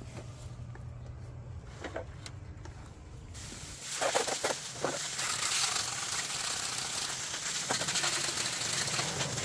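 Faint low hum, then about three seconds in a steady hiss of water spraying from a garden hose starts, rinsing the headlight parts.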